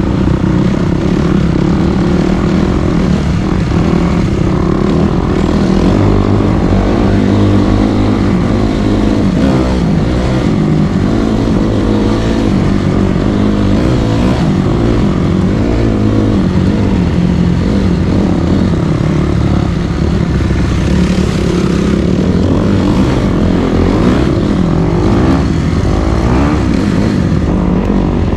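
Dirt bike engine running hard under way, its revs rising and falling as the rider throttles and shifts.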